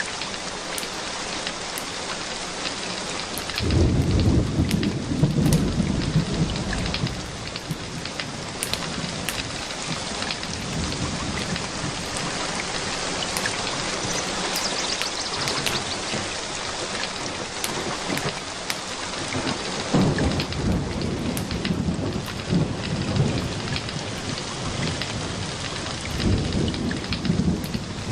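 Steady rain falling, with thunder rumbling three times: about four seconds in, again about twenty seconds in, and near the end.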